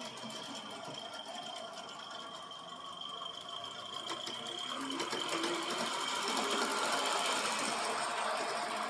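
Aster live-steam three-truck Climax model locomotive running, a rapid, even mechanical clatter from its running gear, with a thin high steady tone that fades out about halfway through. The clatter grows louder about five seconds in.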